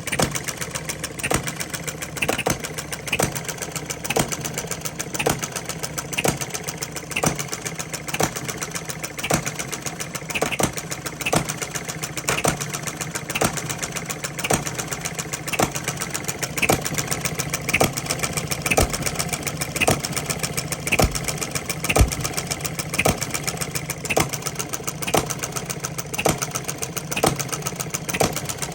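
Small Coles stationary engine running on the bench, a steady hum broken by a sharp beat a little over once a second.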